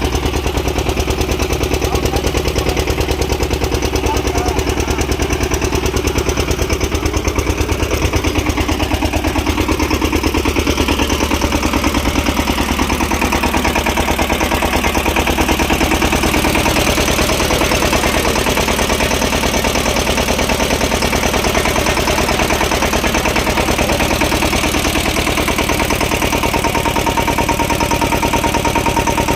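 Eicher 14 hp single-cylinder diesel engine of a mini hydraulic boring machine running steadily with a rapid, even thumping beat.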